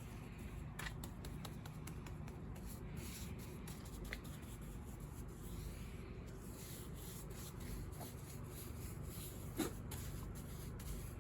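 Faint rubbing and brushing of a paintbrush working thin shellac into the old finish and carved rope molding of a wooden piano case, over a low steady hum.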